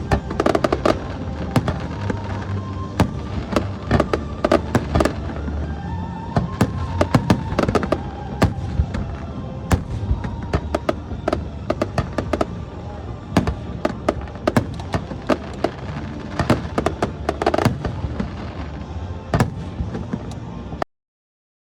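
Fireworks display going off: a rapid, irregular run of bangs and crackles, with music playing underneath. It cuts off suddenly just before the end.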